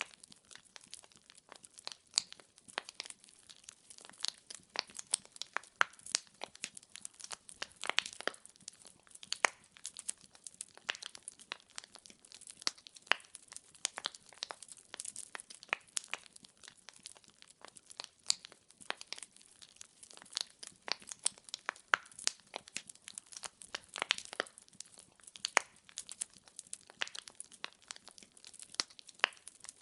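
Wood fire in a fireplace crackling, with dense, irregular sharp pops and snaps of burning logs over a faint soft hiss.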